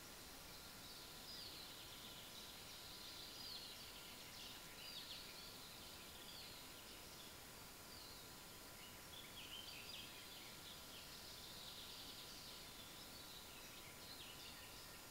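Faint birdsong: many short, high, downward chirps scattered throughout, over the steady hiss of a trail camera's recording.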